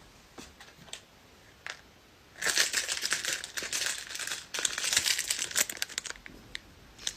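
Crinkly plastic packaging being crumpled and shaken for about three and a half seconds, starting about two seconds in after a few light clicks, then a few scattered crackles.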